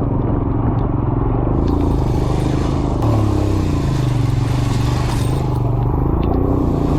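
Motorcycle engine pulling in gear up a steep off-road climb, with the engine note shifting about three seconds in, over rattling and scraping from the bike on the rough track.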